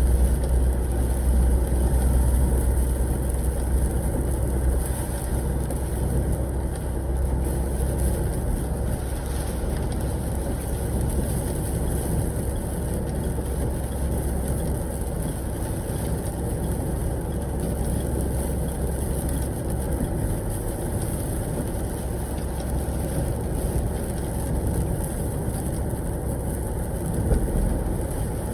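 Semi truck driving, heard from inside the cab: a steady low engine drone and road noise with a constant high hiss over it, slightly easing in level.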